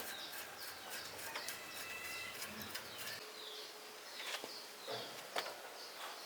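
Small birds chirping over and over in short falling notes, with a few faint clicks now and then.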